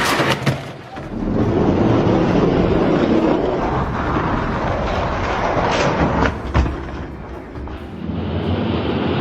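Hot Wheels die-cast monster trucks rolling down a plastic drag-strip track with a steady rumble and a few sharp knocks, under background music.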